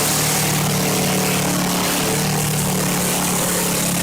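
An engine running steadily at a constant speed, with a strong hiss over its low hum.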